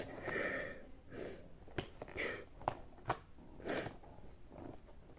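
Short breathy sniffs and exhales mixed with soft clicks and rustles of small plastic packaging being handled.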